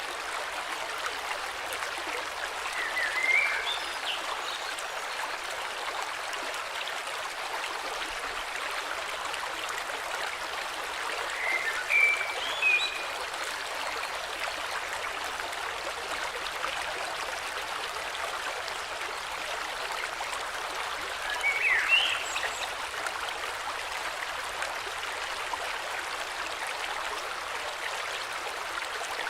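Steady flowing river, with short bursts of bird chirps three times, about ten seconds apart.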